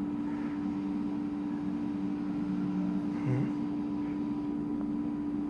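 A steady low hum over a constant hiss of room noise, with a brief faint voice sound about three seconds in.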